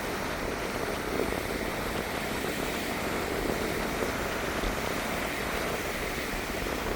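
Mediterranean sea waves washing onto a beach: a steady, continuous wash of small surf with no distinct breaking crashes.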